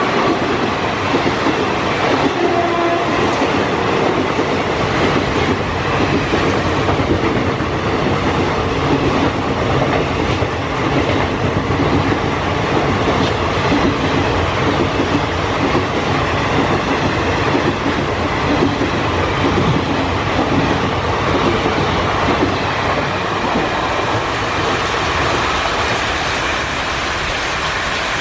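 Passenger train coaches passing at speed, with wheels steadily clattering over the rail joints and heavy rain hissing.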